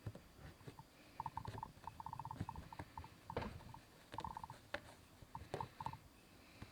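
Faint hand-embroidery sounds: a needle pushed through fabric and thread drawn after it. There are small irregular clicks and several short runs of rapid, squeaky rasping.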